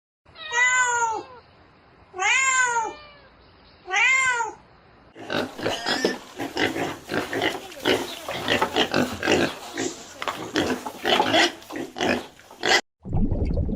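An animal calling three times, each a pitched cry that rises and falls and lasts about a second. These are followed by a long run of quick, closely spaced calls.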